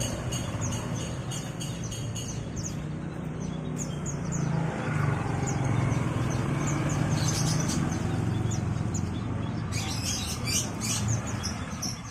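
Caged songbirds chirping and twittering in quick, high repeated notes, a burst of louder chirping near the end, over a steady low hum of a motor or traffic.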